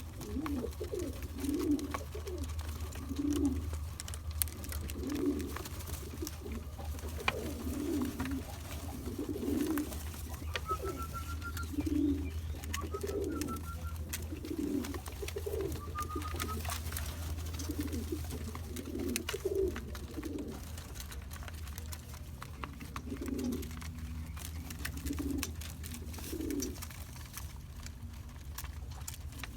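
Cock pigeons cooing over and over, one low phrase after another, over a steady low hum with scattered light clicks. Three short rising whistles come about a third of the way through.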